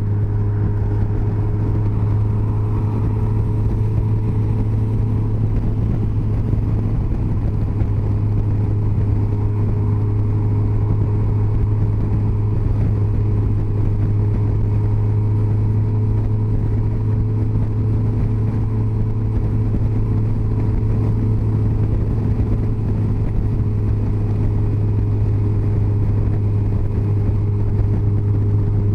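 Yamaha FJR1300's inline-four engine running at a steady highway cruise, a constant drone with no change in pitch.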